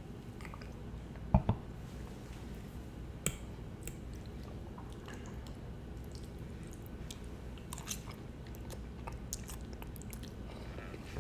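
Close-miked chewing and wet mouth sounds, with scattered short smacks. Two sharp thumps land close together about a second and a half in.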